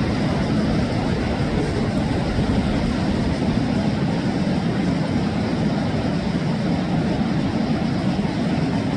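River water rushing: a loud, steady, deep roar that does not change.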